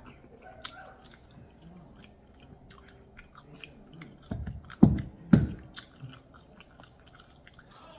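Close-miked chewing and biting of crispy fried chicken: soft wet chewing and small crunches throughout, with three loud bites in quick succession, about half a second apart, a little past halfway.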